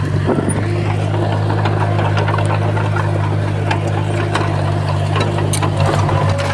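Diesel engine of heavy earthmoving equipment running steadily at a low, even pitch, with scattered clicks and knocks over it.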